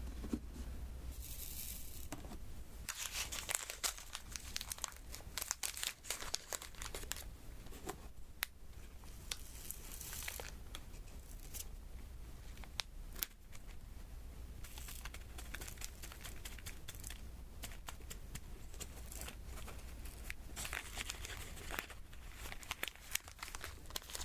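Sticky crackling and peeling from the adhesive diamond-painting canvas and its plastic cover film being handled by fingers, in uneven patches with scattered sharp clicks.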